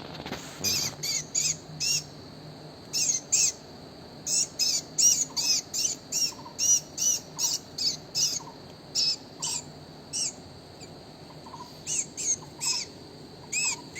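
A bird calling with short, arched chirps, repeated in quick runs of two to several notes with brief pauses between runs. Fainter, lower chirps come in between the loud ones.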